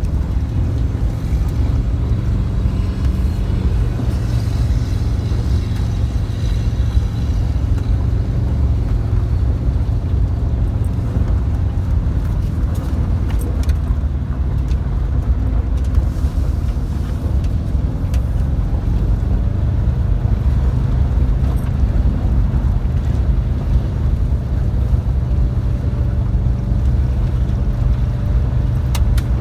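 VW bus, its new engine being broken in, driving up a hill, heard from inside the cabin as a steady, loud engine drone and road rumble, with a few faint clicks partway through.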